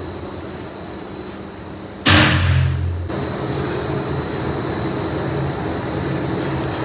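Pipe-factory machinery running steadily with a thin high whine. About two seconds in, a sudden loud burst of noise with a low hum starts and fades away over about a second.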